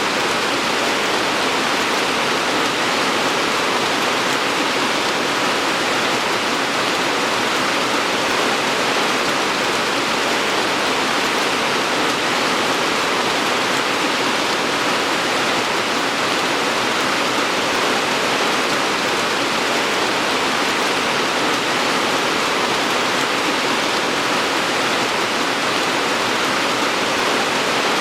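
Steady, dense rainfall, an even hiss of rain with no single drops or thunder standing out.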